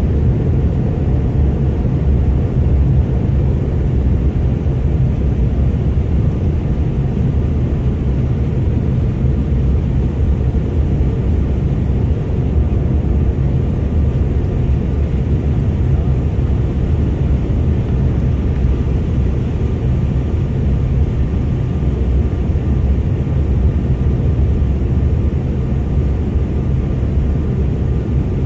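Steady, loud cabin drone inside a Bombardier CRJ900 airliner in flight: the rushing airflow and the hum of its two rear-mounted GE CF34 turbofan engines, deep and unchanging.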